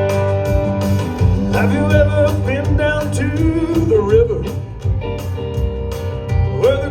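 Live band playing a country-rock song: guitar, bass and drums, with a bending, wavering lead melody over them.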